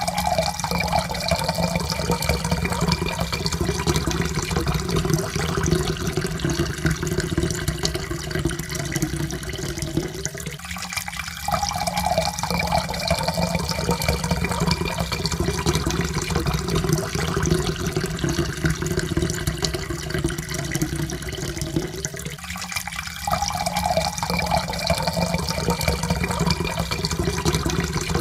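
Water being poured steadily into a cup, its pitch rising slowly as the cup fills. The pour breaks off briefly and starts over twice, about 11 and 23 seconds in.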